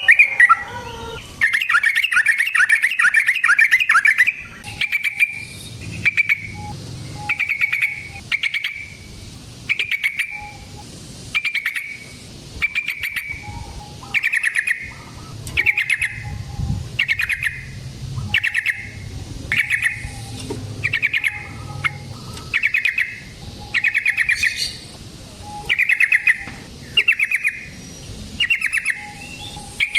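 Yellow-vented bulbul singing. It opens with a fast rolling run of about eight notes, then gives short bubbly phrases repeated roughly once a second.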